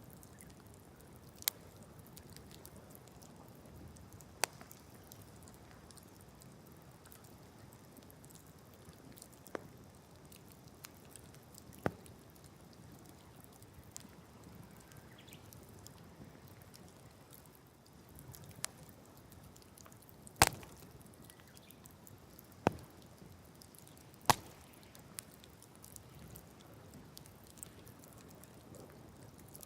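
Wood fire burning, with scattered sharp pops and crackles of the burning wood over a low steady hiss; the loudest pops come about two-thirds of the way through.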